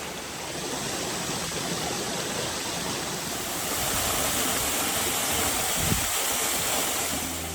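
Steady rushing of falling water from the Srikhola waterfall, growing a little louder about halfway through, with one short knock near the end.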